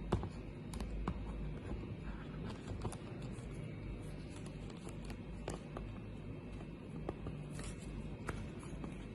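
Light handling noises of a plastic toy RC airplane: scattered small clicks and scrapes over a low steady hum.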